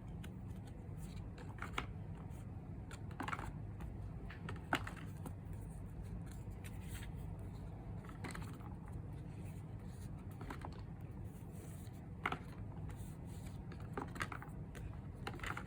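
Postcards being handled and turned over one by one: separate short paper clicks and rustles every couple of seconds over a low steady hum.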